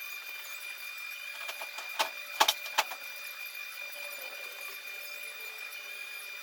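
A few sharp metallic clicks and clinks, bunched about two to three seconds in, over a steady high-pitched whine.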